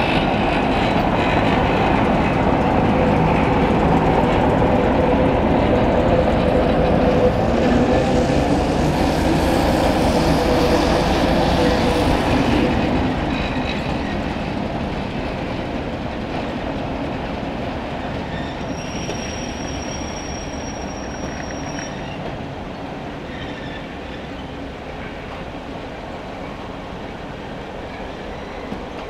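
A slow freight train rolling past on the track, its wheels rumbling and clacking. The noise is loudest for the first half and then fades as the train draws away, with a brief high wheel squeal about two-thirds of the way through.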